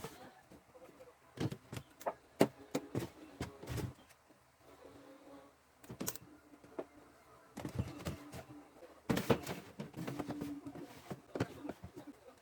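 Irregular clicks, knocks and light clatter of household items being handled and set down, typical of food and containers being put away.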